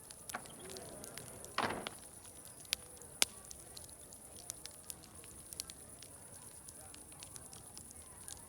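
Wood fire crackling, with irregular sharp pops and one louder, longer crackle about a second and a half in, over a steady high hiss.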